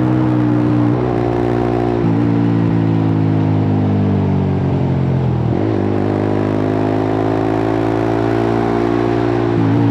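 Suzuki GSX-R150's single-cylinder engine running through a cut-open exhaust while riding. The note sags slowly over the first few seconds, dips briefly about halfway, then climbs steadily, with another short break near the end.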